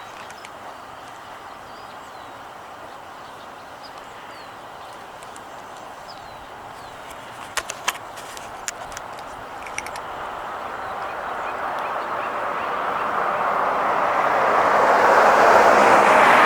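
Road noise from a passing vehicle, swelling steadily and loudest near the end. Faint short bird chirps and a few sharp clicks are heard earlier over a steady outdoor hum.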